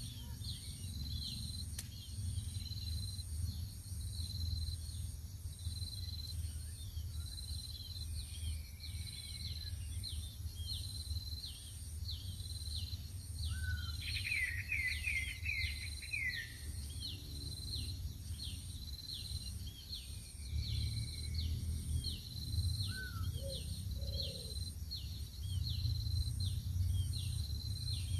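Outdoor ambience of insects chirping in a steady, evenly repeating rhythm, with a bird giving a quick run of descending notes about halfway through, a steady low rumble underneath.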